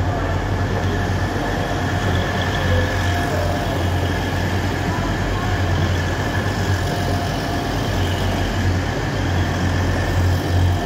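Class 180 Adelante diesel multiple unit drawing slowly into the platform, its diesel engines giving a steady low hum under faint, wavering squeals from its brakes.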